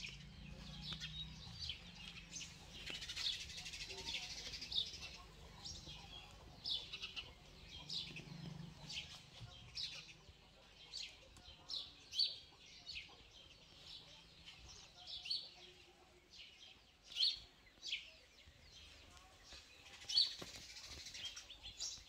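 Small birds chirping: short high calls repeated every second or so, a few louder than the rest.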